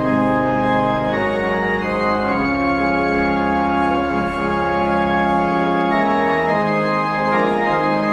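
Organ playing slow held chords, the bass notes changing every second or two.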